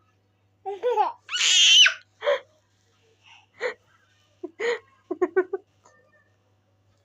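A baby laughing and squealing in short high-pitched bursts, with a loud squeal about one and a half seconds in and a quick run of giggles about five seconds in.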